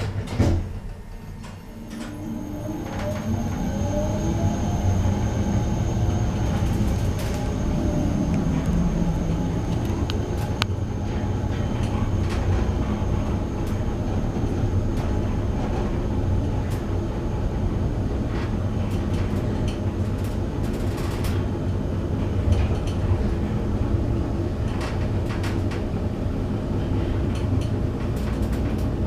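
KONE MonoSpace 500 traction lift car travelling: a steady low hum and rumble of the car in motion. In the first several seconds rising whines are heard as the lift speeds up.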